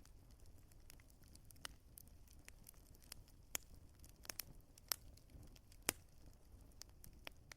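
Wood fire crackling in a fireplace: irregular sharp pops and snaps over a faint low rumble, with a few louder pops.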